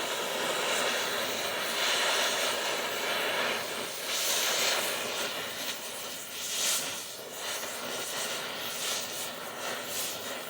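Oxy-acetylene cutting torch burning with a steady rushing hiss as it heats a frame rivet until it melts. The flame's sound is stronger for the first few seconds, then gets lower and more uneven.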